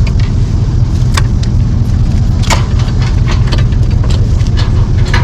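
A vehicle engine idling with a steady low rumble. Over it come several sharp clicks and clanks of metal gear being handled as the boat is readied.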